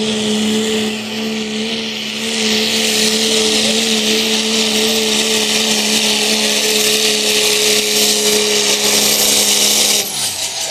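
Diesel pulling truck's engine running at a steady high speed, with a loud rushing hiss that swells about two seconds in. The sound cuts off suddenly near the end.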